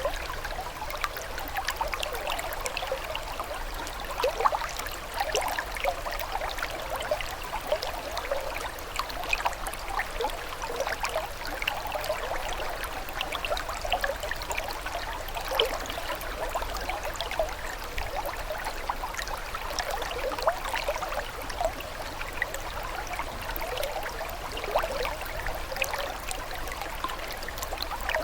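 Small stream of running water, steady trickling and burbling with many little splashes.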